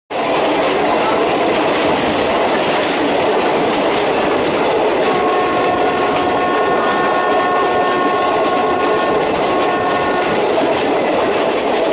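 A passenger train running at speed, heard from an open carriage window: steady rushing rail noise with faint clickety-clack of the wheels over the rail joints. From about five seconds in, a steady high tone of several notes sounds for about five seconds and then stops.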